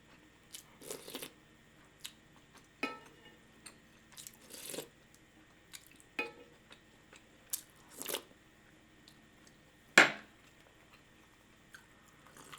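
Close-miked chewing and mouth sounds of a person eating, in short separate bursts about a second apart; the loudest comes about ten seconds in.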